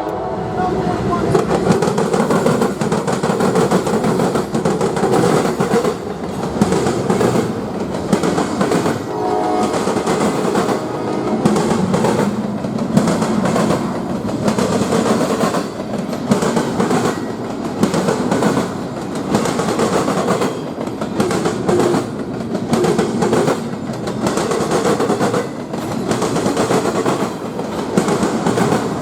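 A train rolling past at close range, with the steel wheels clacking steadily over rail joints and switches above a continuous rumble.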